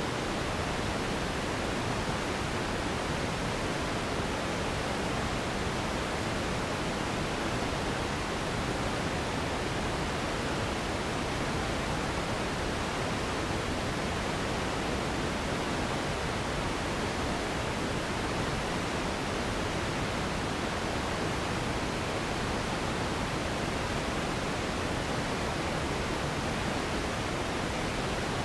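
Steady pink noise: an even, unchanging hiss weighted toward the low and middle range, softer in the highs.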